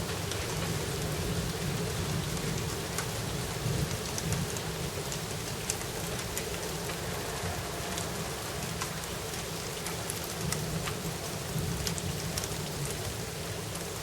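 Steady rain falling, with individual drops ticking sharply on a nearby surface.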